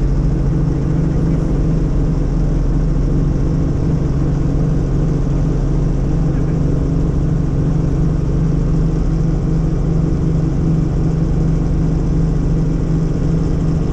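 Helicopter in flight, heard from inside the cabin: a loud, steady drone of engine and rotor, with several low, unchanging hums.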